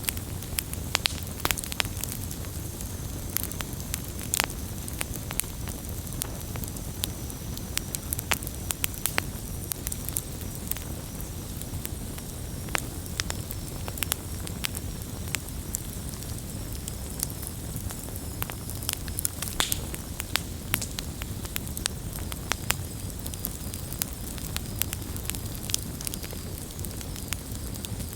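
Campfire burning with irregular sharp crackles and pops over a steady low rumble and hiss of the flames, with a faint high hiss running through it.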